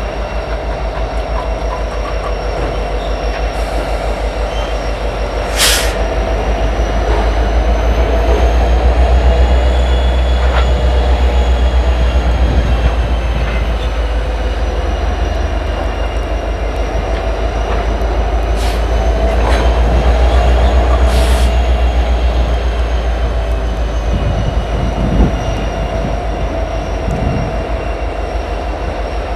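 Diesel freight locomotives working slowly against a cut of cars to test a coupler: a steady low engine drone with a thin high whine that slowly rises and falls. A few short, sharp high squeals cut through, about six seconds in and twice more around twenty seconds in.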